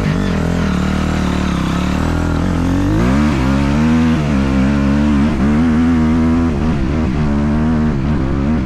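Honda CRF250 dirt bike's single-cylinder four-stroke engine running at a steady low speed, then revved up and down repeatedly from about three seconds in.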